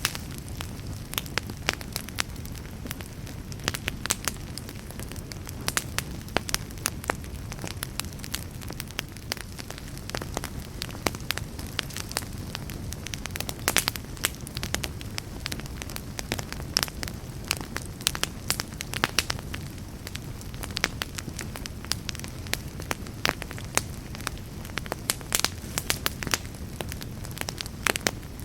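Fireplace fire burning steadily: a low rumble of flame with frequent irregular crackles and sharp pops.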